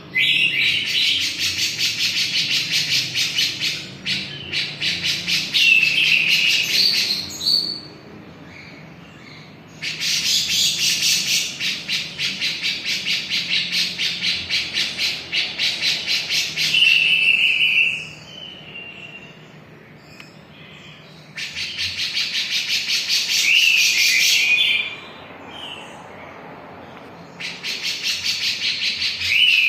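A cucak jenggot (brown-cheeked bulbul) singing in long bouts of rapid, chattering notes, each bout ending in a short gliding whistle. Four bouts come with brief pauses between them.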